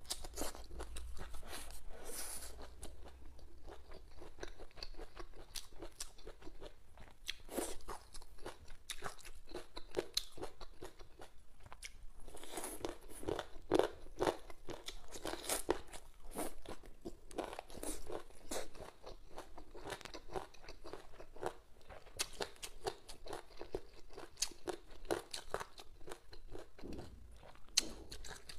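Close-miked eating: a person biting and chewing boneless chicken feet and green peppers, with irregular wet crunches and mouth clicks, busiest around the middle.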